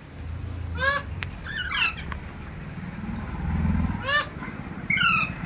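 Ringneck parrot giving short, high, harsh calls in several bursts, about a second in, just before two seconds, and twice more near the end, over a low engine rumble.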